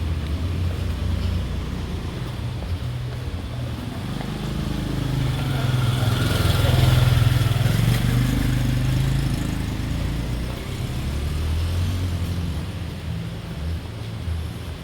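A motor vehicle's engine passing by: a low hum that grows louder toward the middle and fades again, its pitch rising and then dropping.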